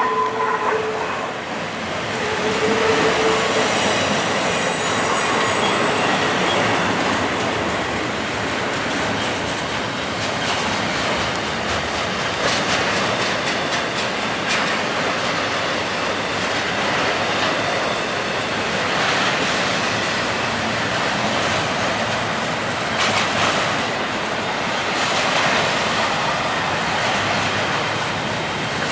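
Freight train cars rolling past, a steady loud rumble and rail noise with wheels clicking over the rail joints and some wheel squeal.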